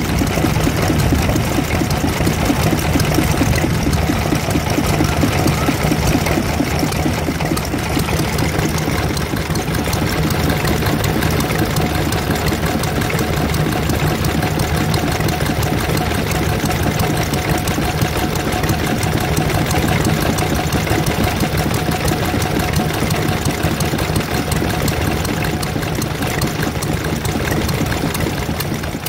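Vintage stationary engine running steadily at a fast, even beat.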